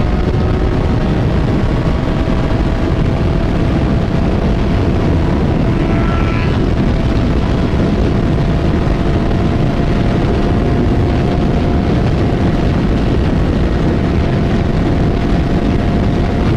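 Motorcycle engine running at a steady cruise, its note climbing slowly, under heavy wind rush on the rider's microphone.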